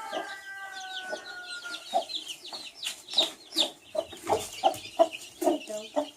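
Baby chicks peeping and a broody mother hen clucking to them, the clucks coming quickly, several a second, over the last couple of seconds.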